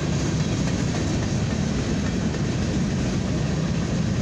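A mixed freight train's covered hopper cars rolling past at close range: a steady, loud noise of steel wheels on the rails.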